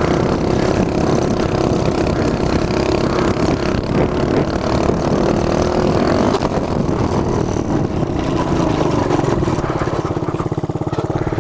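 Small single-cylinder mini bike engine running under throttle while being ridden, then dropping to a lower, steady putter near the end.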